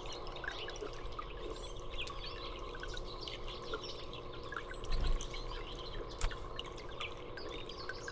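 Small songbirds chirping in short scattered calls over a steady background hum, with a dull thump about five seconds in and a sharp click a second later.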